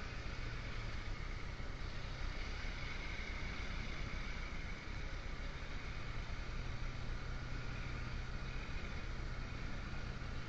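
Motorbike engine running steadily at a cruising speed, a low, even hum under a constant rush of wind and road noise.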